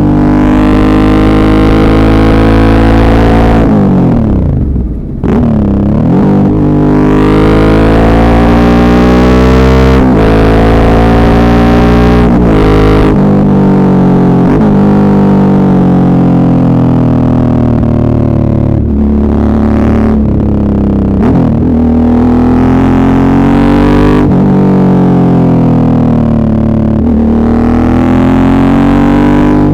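Suzuki V-Strom 650's V-twin engine under way, its revs climbing and falling with throttle and gear changes, with a sharp drop in revs about five seconds in and a few more quick dips later. Heard through an earbud microphone, loud and distorted.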